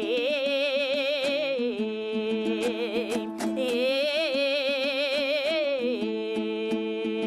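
A terme singer holding two long, wavering high notes without words, with fast strumming on a plucked dombra running underneath.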